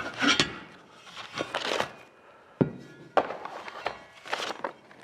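Metal table parts being handled and set down while unpacking: a few knocks and clunks, the sharpest about two and a half seconds in, between short spells of rustling packing material.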